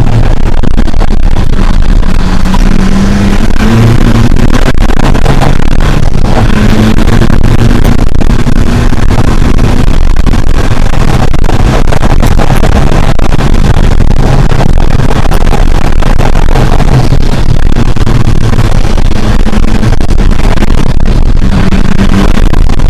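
Rally car engine heard very loud from inside the cockpit, running hard at speed on a stage. The engine note steps up and down as the driver changes gear and lifts, over steady road and cabin noise.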